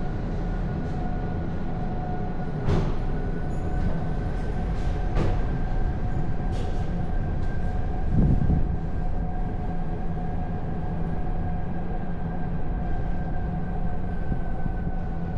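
A car driving: a steady rumble of engine and tyres on the road with a steady whine over it. A few sharp knocks come through, and there is a heavier thump about eight seconds in.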